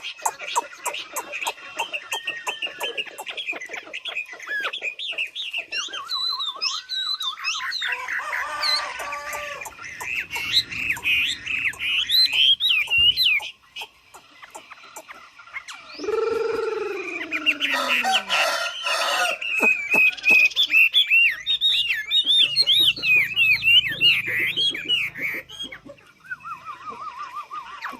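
A chim mi songbird singing long runs of rapid, varied warbled notes, with a pause about halfway. Just after the pause a rooster crows once, a long call that falls in pitch.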